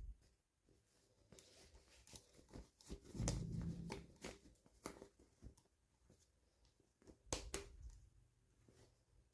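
Toy packaging being handled and opened: soft scattered clicks, crinkles and rustles, with louder bursts of handling about three seconds in and again about seven seconds in.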